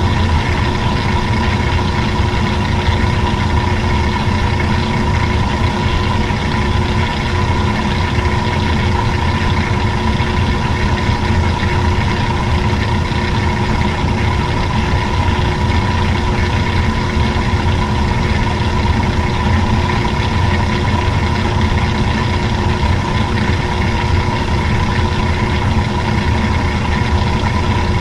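Old-style washing machine running, its motor giving a loud, steady hum with a constant whine.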